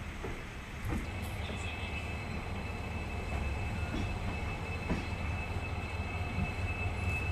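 Passenger train pulling slowly out of a station, heard from an open coach doorway. The coaches run with a low rumble, and a wheel knocks over the rail joints about once a second. A steady high whine comes in about a second and a half in.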